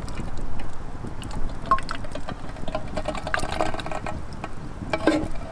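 Liquid being poured into a container, with scattered small clicks and knocks.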